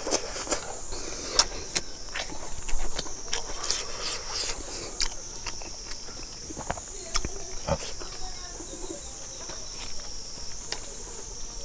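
Close-up eating sounds: wet chewing, lip smacks and sharp crunchy clicks as roasted chicken and rice are eaten by hand. A steady high-pitched insect drone that slowly swells and fades runs behind.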